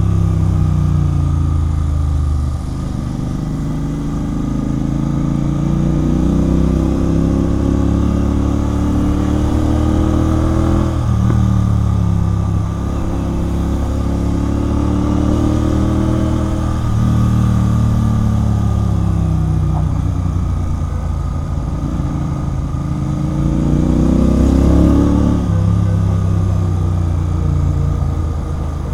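Royal Enfield Continental GT 650's parallel-twin engine through a Red Rooster aftermarket exhaust, under way. The pitch climbs and drops several times as the bike accelerates and the throttle eases off, with the strongest climb near the end.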